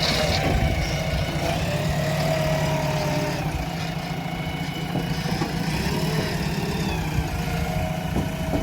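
Heavy diesel machinery engine running steadily at a low, even speed, with a faint steady whine above the rumble.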